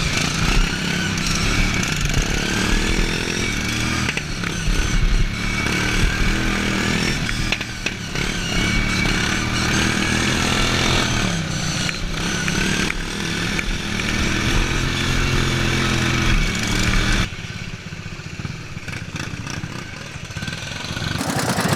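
Small racing engines of several racing lawnmowers running at high revs, their pitches rising and falling as they pass and overlap. The sound drops off abruptly and gets quieter about 17 seconds in.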